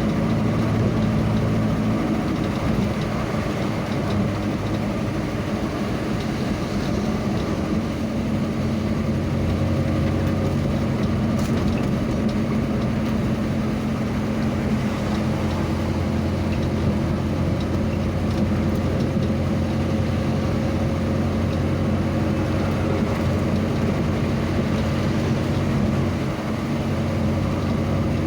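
A vehicle engine running steadily on the move, a low, even drone over a constant road noise, shifting slightly in pitch a couple of times.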